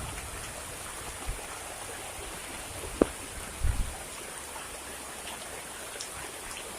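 Heavy rain falling steadily on the forest, with one sharp tap about three seconds in and a brief low thump just after.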